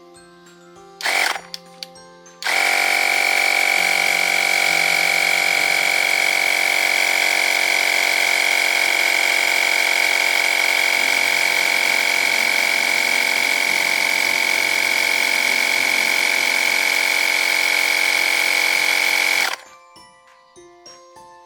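DigHealth cordless battery-powered tire air compressor running: a brief burst about a second in, then a loud steady whine for about seventeen seconds that cuts off sharply.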